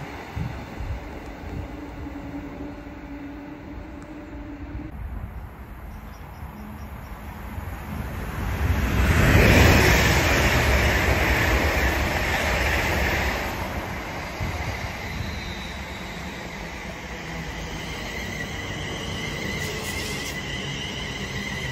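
London Northwestern Class 350 Desiro electric multiple unit passing through the station without stopping. Its rumble and the rush of wheels on rail swell to the loudest point about nine seconds in and fade by about fourteen seconds. A low hum from a departing train comes first, and near the end a second Class 350 runs in on the other line with a whine.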